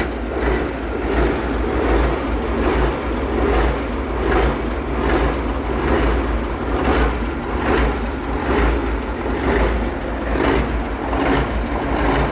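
YaMZ-7511 V8 turbodiesel engine running just after its first start following a major overhaul, with a regular pulsing in its sound.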